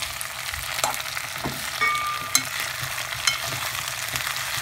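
Potatoes and onion sizzling as they fry in oil in a kazan, a steady hiss, while a spoon stirs them. The spoon scrapes and knocks against the pot, giving a few sharp clicks.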